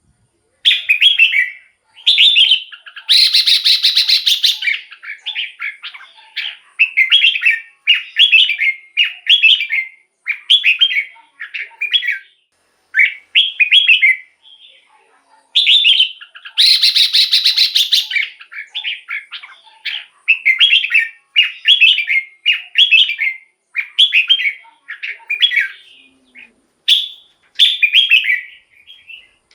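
Red-whiskered bulbul singing short, repeated whistled phrases about once a second. Two longer, harsher phrases come about three seconds in and again a little past halfway.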